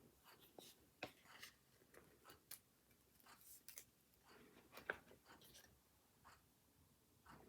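Faint, scattered taps, clicks and short paper rustles of stationery being handled on a planner page, with one sharper click about five seconds in.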